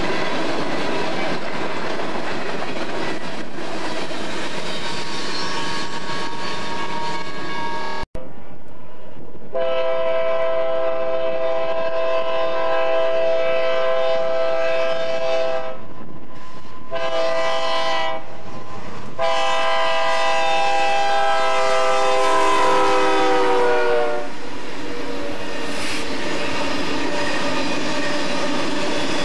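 Loaded coal train's cars rolling and clacking past on the rails. After a cut, a BNSF diesel locomotive's multi-chime horn sounds three blasts, long, short and long. The last blast drops in pitch as the locomotive passes, and then the coal hopper cars rumble and clack by.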